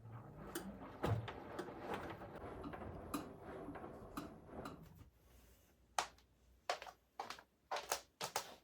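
Household objects being handled: rustling and scraping for about five seconds, then a run of about six sharp clicks and knocks.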